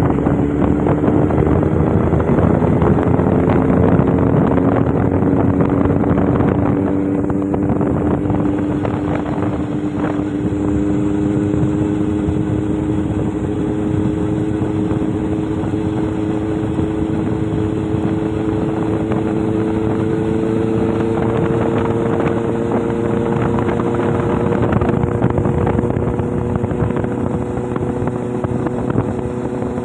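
Motorboat engine running steadily under way, its pitch creeping slowly upward through the first part and again later on.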